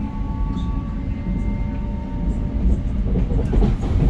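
Electric commuter train running on the rails: a steady low rumble with a few faint steady whining tones above it and scattered light clicks.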